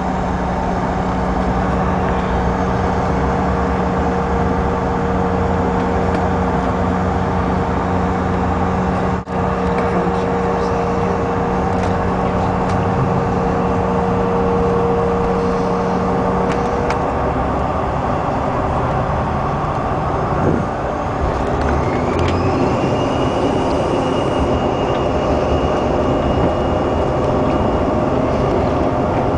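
Cabin noise of a CRJ-700 regional jet with its rear-mounted General Electric CF34 turbofans running: a steady rumble with a held hum. About 20 seconds in, a whine rises in pitch over a few seconds and then holds high as the engines spool up.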